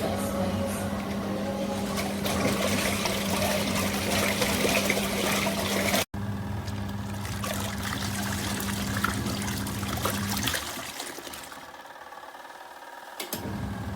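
Electric mini twin-tub washing machine running: a steady motor hum with water churning and trickling. The hum stops about ten seconds in and starts again near the end.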